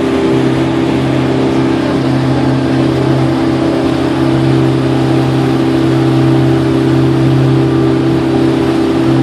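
Passenger boat's engine running at steady speed, a loud, even drone with a constant hum.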